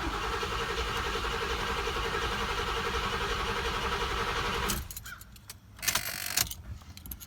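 Chevy small-block V8 being cranked by its starter for about four and a half seconds without catching, then cranked again briefly about a second later: a cold start after the car has sat for three to four weeks.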